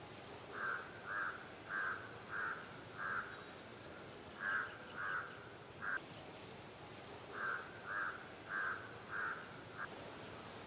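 A bird calling: short calls repeated about twice a second, in three runs broken by pauses of a second or more.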